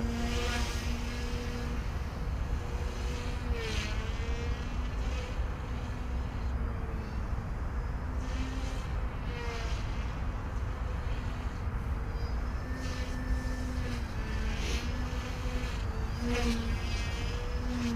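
OMP M1 micro RC helicopter in flight: a steady whine from its rotors and motor whose pitch dips briefly a few times, around 4, 9 and 16 seconds in, as it is thrown through manoeuvres. Wind rumbles on the microphone underneath.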